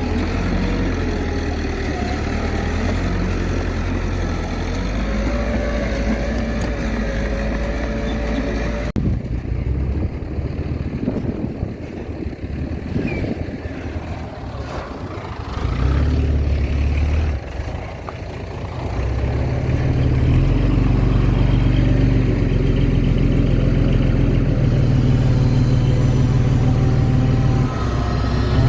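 Diesel engines of earthmoving machinery running under work. The sound changes abruptly about nine seconds in, and a deeper, louder engine drone sets in from about twenty seconds in.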